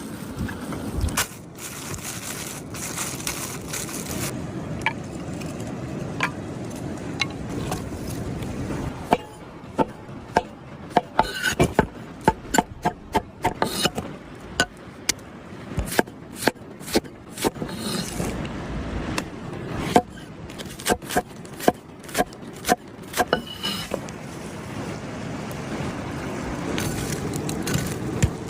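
Sharp, irregular knocks and clicks, several a second, with scraping, over a steady outdoor hiss: hands-on work with wood or utensils during outdoor cooking. The knocks thin out near the end.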